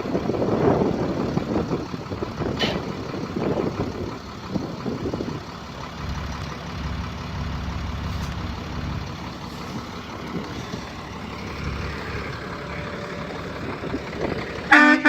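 Caterpillar 3126 diesel engine of a grain truck running steadily, with a few knocks. Near the end comes one short, loud blast of the truck's air horn.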